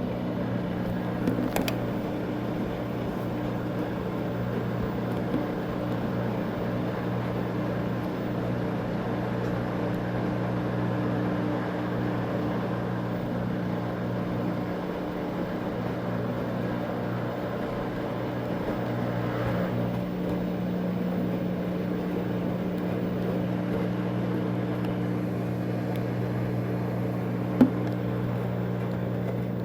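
Washing machine drain pump running steadily with a low, even hum as the washer drains. A single sharp click near the end.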